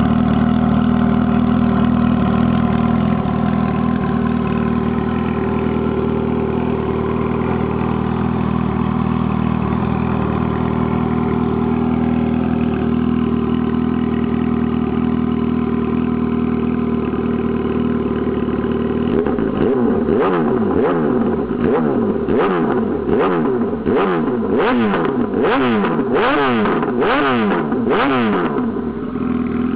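2007 Yamaha YZF-R1's inline-four engine idling steadily through a homemade straight-through stainless exhaust with no catalytic converter. About two-thirds in it is revved in a quick run of about a dozen sharp throttle blips, then settles back to idle near the end.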